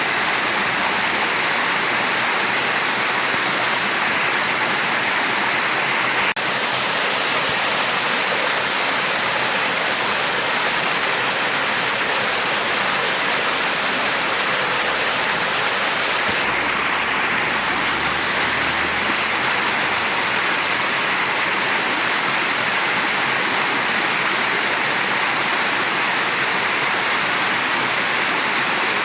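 Mountain stream rushing steadily, water tumbling over rocks in an even, unbroken wash.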